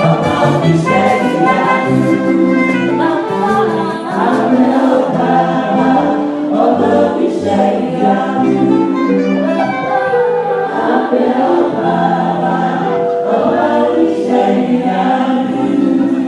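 Church choir singing a harvest anthem in parts, with instrumental accompaniment, continuous and full throughout.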